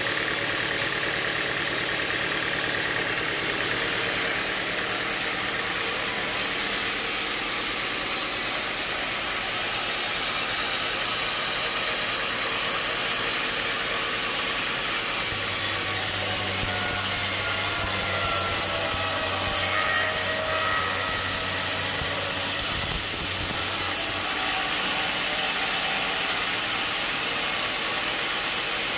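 Sawmill machinery running steadily. From about halfway in, a low hum and a high hiss join it for roughly nine seconds, then stop.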